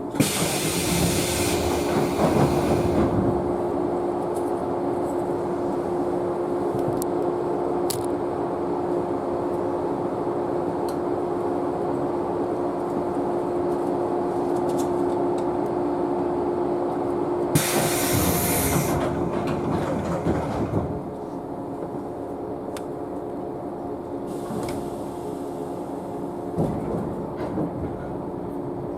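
Sound inside a JNR 113-series electric train car: a steady mechanical noise with a steady humming tone, broken by two loud bursts of air hissing, one at the start and one about 18 seconds in.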